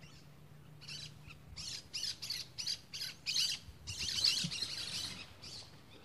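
Small bird calling: a fast run of short, high chirps that starts about a second in, grows denser in the middle and thins out near the end.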